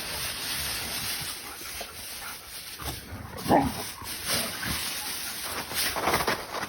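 A dog making short vocal sounds over a steady hiss. The loudest is a single call about halfway through that drops in pitch.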